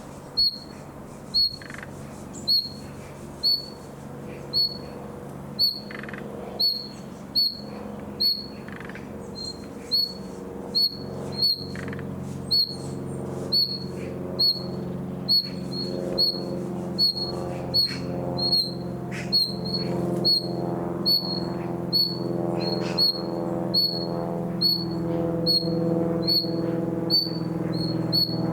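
Young nightingale giving one short, high note about once a second, very evenly and over and over, rather than a full varied song. A low steady hum runs underneath and grows louder in the second half.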